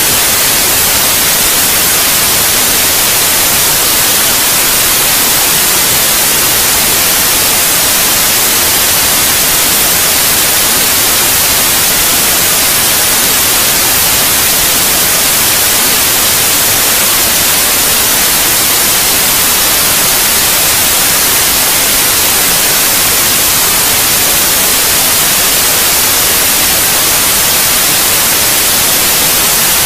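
Steady white noise: an even, unchanging hiss, strongest in the high frequencies, played as a sleep aid for babies.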